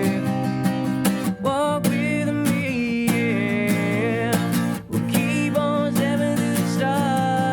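Acoustic guitar music, strummed and picked, with a wavering melody line over steady low notes.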